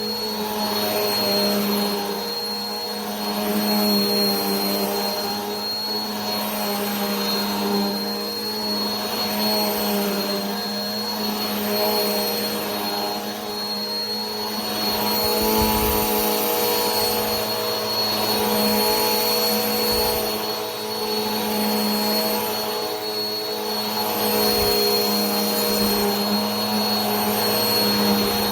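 Vacuum cleaner motor running continuously: a steady hum with a thin high whine over a rushing of air, swelling and easing slightly every few seconds.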